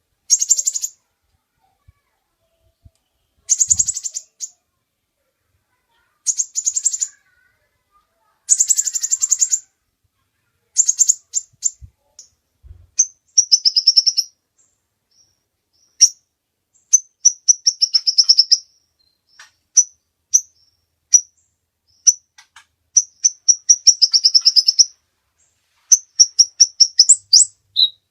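Kolibri ninja, a small sunbird, singing: short bursts of very rapid, high trills separated by pauses of one to two seconds, turning in the second half into a longer run of quick, sharp chirps.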